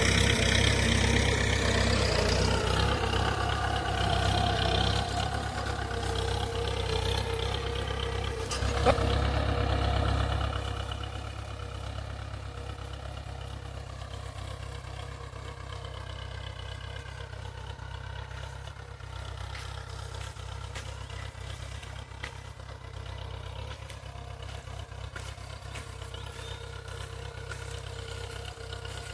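Mahindra 475 tractor's diesel engine running steadily while pulling a cultivator through the soil. About ten seconds in it drops to a quieter, steady run, and there is one sharp click shortly before that.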